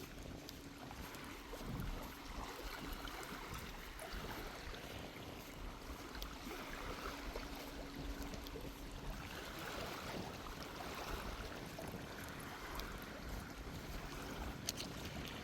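Small waves washing onto the beach, with sea breeze rumbling on the microphone. A faint steady hum sits underneath through the first half and fades.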